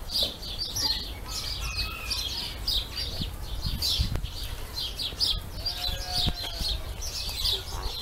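A flock of small aviary birds chirping continuously, many short, high calls overlapping.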